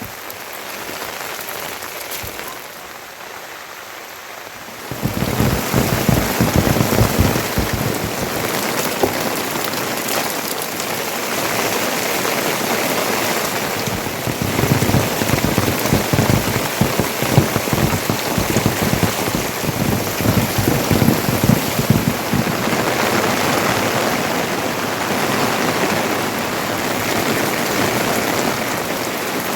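Heavy rain falling, with a dense patter of drops striking a surface. It is softer at first, then about five seconds in it suddenly turns louder and stays so.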